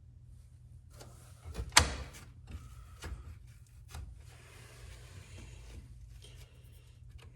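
Objects being handled on a work surface: scattered knocks and clicks, with one sharp knock just under two seconds in, and a soft rustle after the middle.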